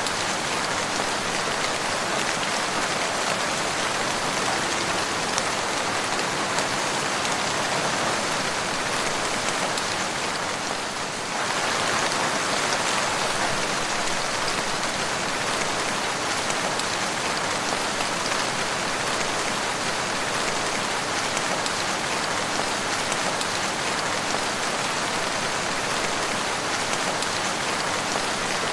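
Steady rain falling and pattering on a surface, dipping briefly about eleven seconds in.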